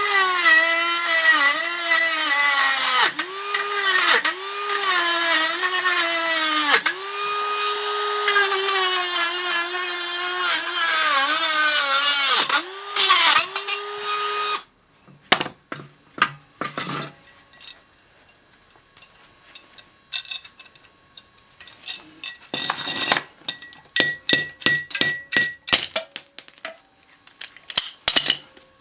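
Handheld electric power tool running for about fifteen seconds, its motor whine dipping again and again as it is pressed against the work, then stopping abruptly. Light clicks and clinks of small metal parts follow.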